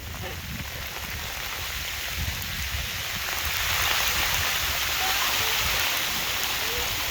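Heavy rain pouring down steadily, growing louder a few seconds in as the storm intensifies.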